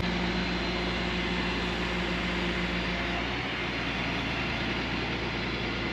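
Heavy diesel engine running steadily, with a steady low hum under an even mechanical noise.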